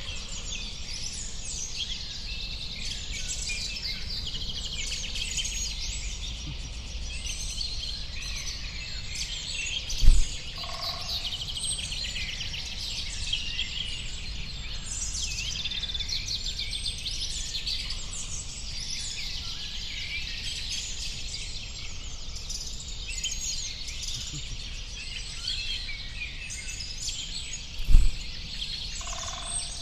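Many songbirds chirping and singing at once in a dense, overlapping chorus, over a low steady rumble. Two loud low thumps stand out, one about ten seconds in and one near the end.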